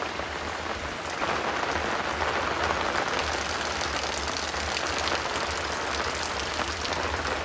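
Heavy rain falling: a dense, steady hiss full of single drop strikes, with a low steady rumble underneath.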